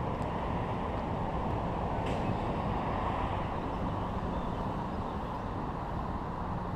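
Canadian Pacific train cars rolling across a steel trestle bridge: a steady, continuous rumble with no let-up.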